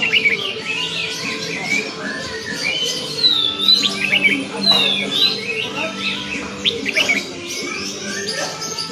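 Sooty-headed bulbul (kutilang) calling: short chirpy whistled phrases, repeated every second or two, over background music.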